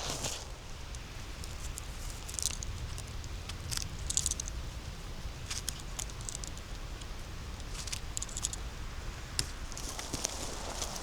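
Footsteps on the forest floor, dry leaves and twigs crackling underfoot in short clusters every second or two, over a steady low rumble.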